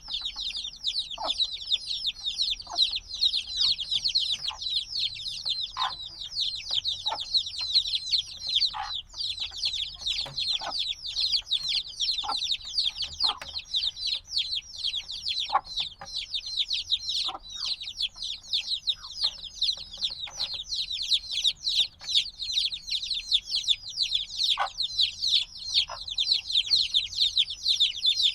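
A brood of chicks a few days old peeping nonstop, with many short, high, downward-sliding chirps overlapping, noisy throughout.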